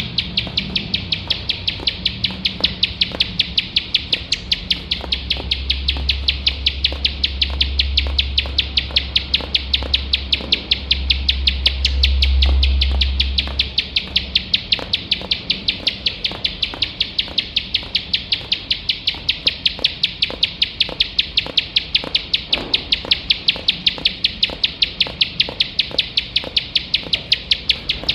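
A ciblek sawah, a prinia, singing its rapid-fire song: sharp, evenly repeated notes, about four a second, without a break. A low rumble comes in for several seconds in the middle.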